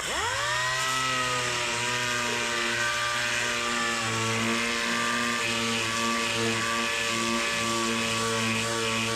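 Power sander starting up, its motor whining up to speed within about a second, then running at a steady pitch.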